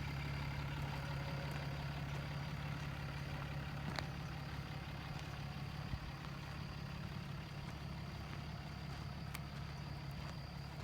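Truck engine idling steadily, with a couple of faint clicks.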